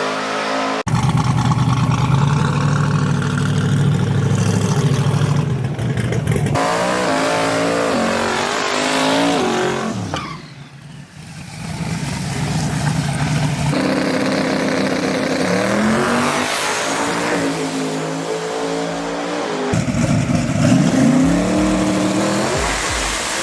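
LS V8 drag-race truck engines revving and accelerating, in several short clips cut together, the pitch climbing and dropping with each rev. The sound dips briefly about ten seconds in.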